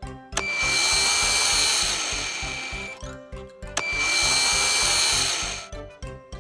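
A cartoon power-tool sound effect, a noisy whir with a steady high tone, running twice for about two seconds each over background music with a steady beat.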